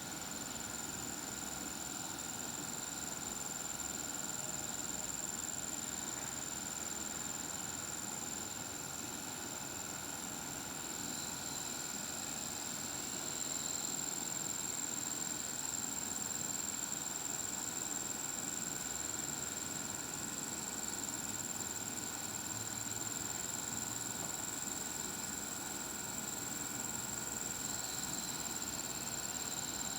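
Steady background hiss with a continuous high-pitched whine and a fainter lower tone held unchanged throughout; no cat calls.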